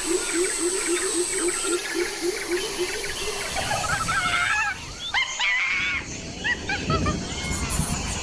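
Forest chorus of many birds chirping and whistling over a steady high insect drone. For the first three seconds or so, a low call repeats about three to four times a second.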